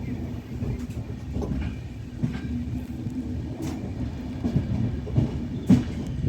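A train running on the track: a steady rumble of wheels on rail with a low hum, broken by clacks over rail joints that grow louder near the end.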